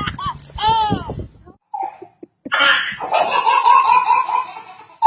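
A child laughing hard. A high squeal comes near the start, then after a short pause a rapid run of repeated laughing pulses.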